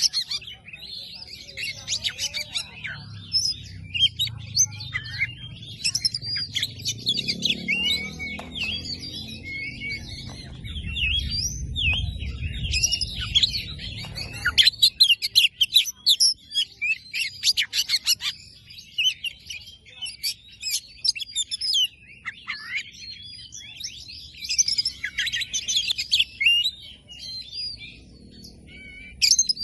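Oriental magpie-robin singing continuously: a rapid, unbroken stream of varied high whistles, chirps and trills. A low rumble runs underneath through roughly the first half.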